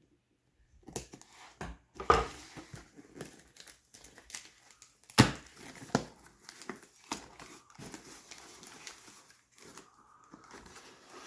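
Packaging being opened by hand: crinkling and tearing, with two sharp snaps about two and five seconds in, the second the loudest.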